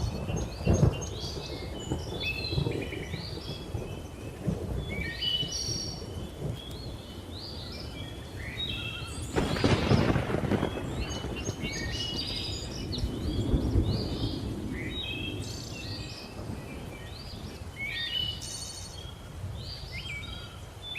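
Thunder rumbling under a steady chorus of chirping bird calls, with sharp cracks right at the start and a loud thunderclap about ten seconds in.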